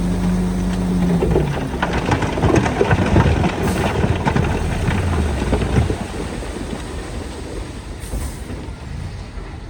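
Heavy earthmoving machinery at work: a diesel engine runs steadily, then about a second in gives way to loud clanking and crunching for several seconds before it eases off.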